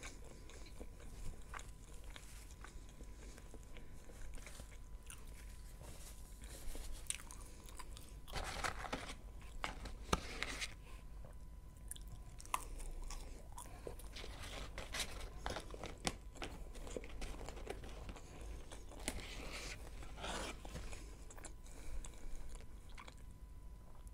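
Close-miked chewing of McDonald's french fries: soft biting with many short mouth clicks and smacks.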